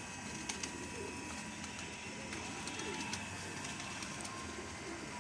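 Domestic pigeons cooing repeatedly, a cock bird driving his hen, with a few sharp clicks.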